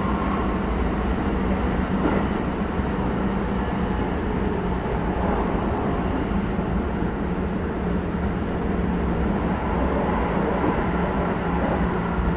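Running noise heard inside a Keisei 3100-series electric train car with Toyo hybrid SiC-VVVF control, moving at speed: a steady rumble of wheels on rails with a low, even hum underneath.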